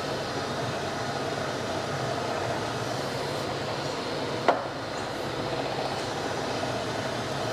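Gallmeyer & Livingston No. 55 surface grinder running: the spindle and hydraulic table drive give a steady mechanical hum. A single sharp click sounds about halfway through.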